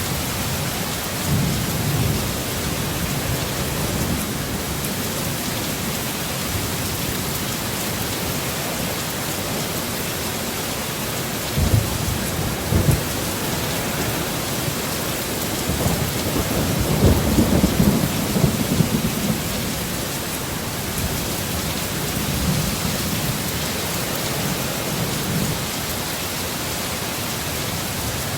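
Heavy steady rain with rolls of thunder: a brief rumble about two seconds in, a sharp crack and rumble a little before halfway, and a longer rolling peal past the middle.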